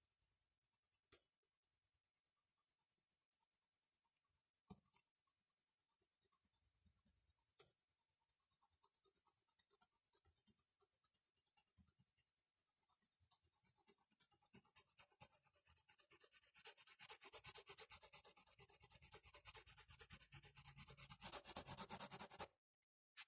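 A drawing tool scratching on paper: scattered light strokes with a few taps, then fast back-and-forth shading strokes that grow louder for the last third and stop abruptly near the end.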